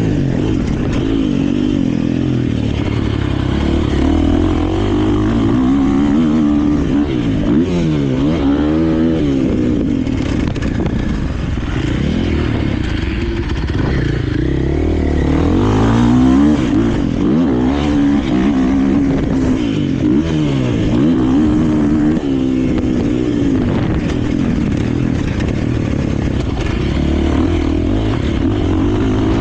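KTM 450 four-stroke single-cylinder motocross bike being ridden hard, its engine revving up and falling off again and again as the throttle is worked and the gears change.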